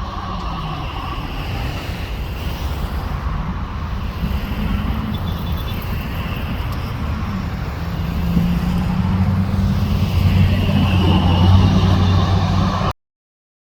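Airbus A320 jet engines at takeoff thrust: a deep rumble with a high whine that grows steadily louder, then cuts off suddenly near the end.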